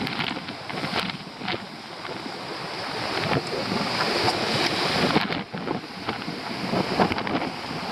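Storm surf crashing on rocks under strong wind buffeting the microphone, the rush of noise swelling and easing, with a few short clicks.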